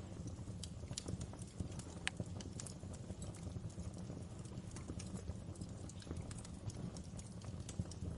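Fire in a fireplace crackling: irregular sharp pops over a steady low rumble, with one louder pop about two seconds in.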